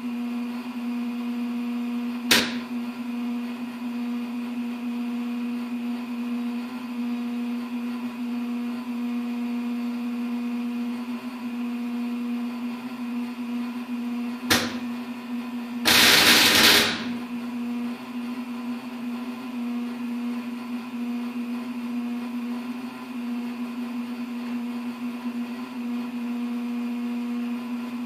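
Oil furnace running with a steady hum, broken by two sharp pops, about two seconds in and about fourteen seconds in, and a loud, harsh burst lasting about a second shortly after the second pop. This popping is the unexplained noise the owner calls awful.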